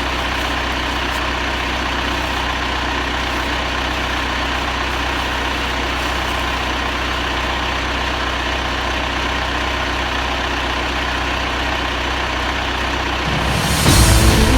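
An engine running steadily at a constant speed, as when machinery is set to move round hay bales. Music starts about a second before the end.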